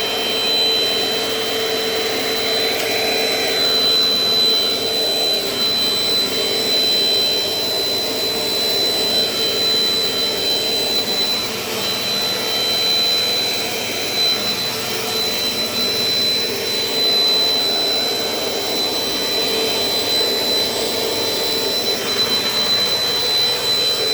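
Dirt Devil Dynamite Plus compact vacuum cleaner running steadily, its motor giving a constant high whine.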